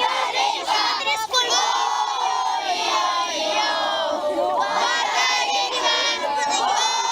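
Crowd of children shouting and cheering together, many voices at once with long drawn-out held shouts.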